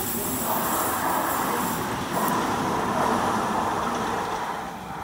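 Sydney Trains double-deck electric train passing close by, a loud steady wheel-on-rail running noise that starts to fade near the end as the last cars go by.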